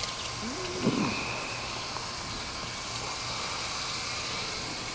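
Coil cleaning gun spraying Nu-Calgon coil cleaner onto an HVAC unit's coil: a steady hiss of spray, with a short squeak about a second in.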